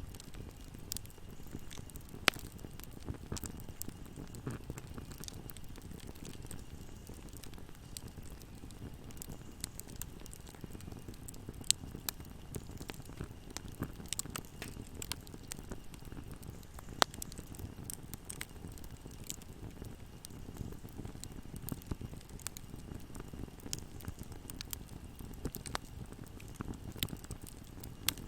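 Wood fire burning in a fireplace: a steady low rumble of flame under constant small crackles, with sharp pops of the wood, three of them loud snaps.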